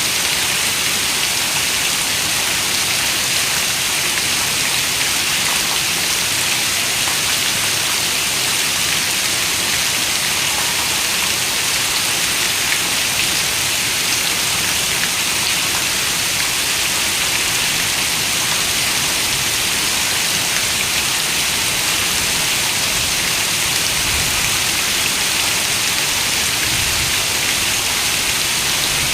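Steady rain on a window: an even, hissy wash with faint scattered drop ticks, unchanging throughout.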